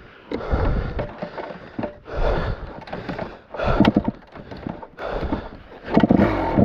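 Irregular scuffing and knocking with snort-like bursts of breath, a burst about once a second. Near the end a dirt bike engine runs up and revs.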